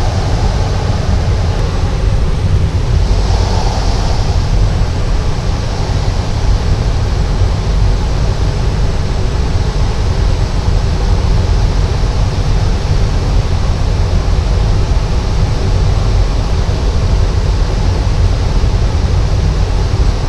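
Cessna 208 Caravan's PT6A turboprop engine and propeller running steadily, heard from inside the cockpit as a loud, even, deep-heavy noise. A brief hiss rises over it about three seconds in.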